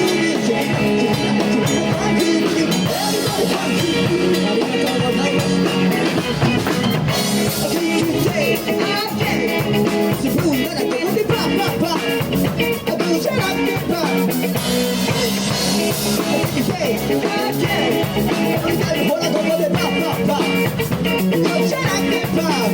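Live band playing an instrumental passage on drum kit and guitar with a steady beat, with no lead vocal.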